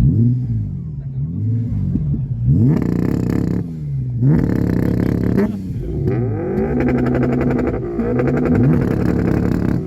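Car engines, a Toyota GT86 and a Lexus IS200, being free-revved in repeated blips, the pitch rising and falling about once a second. Twice the revs climb high and harsh, and in the second half the engine is held up at high revs for a few seconds before dropping back.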